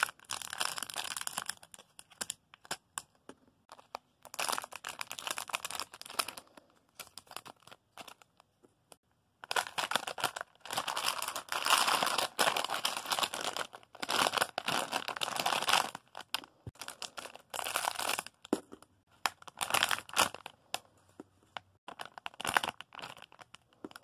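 Crinkly plastic rustling in irregular bursts of crackling as squishy toys are handled and sorted, with several short pauses between handfuls.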